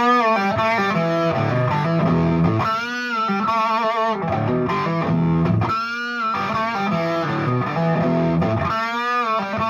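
Overdriven electric guitar: a 2007 Gibson Les Paul Standard played through a Fuchs Train-45 tube amp with 6V6 power tubes. Low, dense riffing is broken about every three seconds by bent, wavering high notes.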